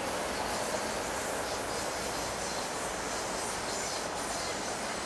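MTR metro electric multiple-unit train running along the track: a steady, even rolling noise of wheels on rails.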